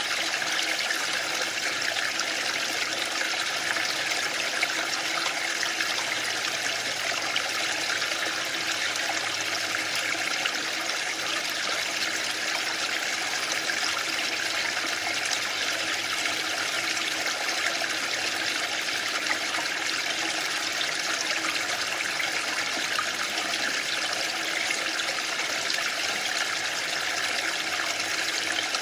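A waterfall, water falling and splashing in a steady, unchanging hiss that holds most of its strength in the upper-middle and high range.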